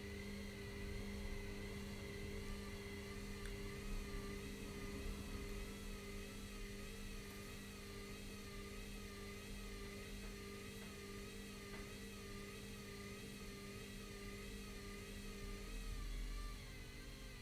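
Washing machines running mid-cycle: a motor whine that wavers regularly up and down over a steady hum, with a low rumble that swells near the end and then drops.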